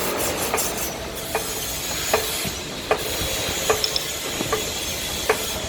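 Gasless flux-core MIG welding arc with a steady hissing crackle, broken by sharp pops about once a second.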